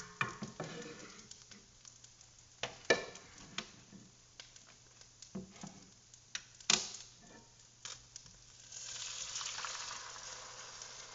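Risotto rice in a hot pan: scattered clinks and knocks of a ladle and spoon against the pan, then, about two-thirds of the way in, a steady sizzle as hot chicken broth is ladled into the rice, slowly dying down.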